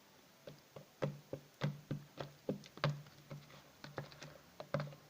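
Glue slime setting with borax water being stirred: irregular sticky clicks and pops, a few a second, as the mixture firms up.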